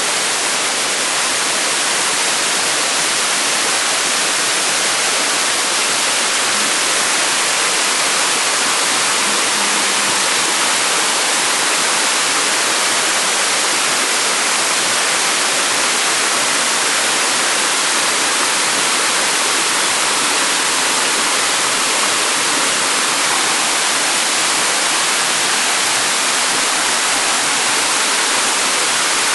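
Waterfall pouring, a steady loud rush of falling water, close up.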